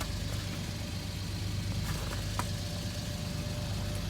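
Suzuki Carry mini truck's small three-cylinder engine idling steadily, with a couple of light clicks about two seconds in.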